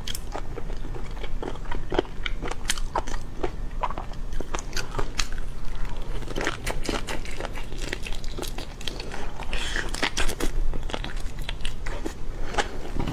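Close-miked eating of seafood: crunchy bites and chewing, with many irregular crackling clicks, over a low steady hum.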